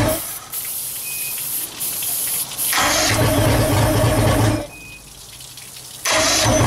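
Johnson 150 V6 two-stroke outboard being cranked by its electric starter in repeated bursts of a second or two with short pauses between, without settling into a run. The owner suspects carburetor problems after ten years of sitting.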